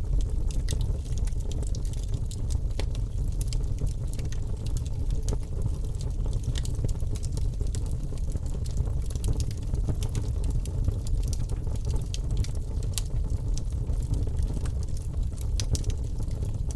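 Wood fire crackling in a fireplace: frequent sharp, irregular pops and snaps over a steady low rumble of the flames.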